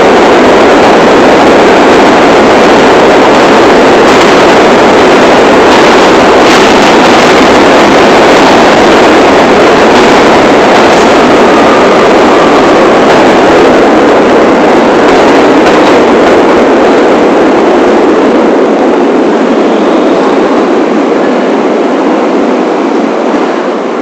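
New York City subway train running, a loud steady noise of the moving train that eases off a little near the end.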